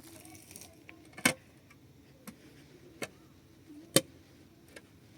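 A handful of sharp knocks at uneven intervals over a quiet background, the loudest about a second in and again near four seconds.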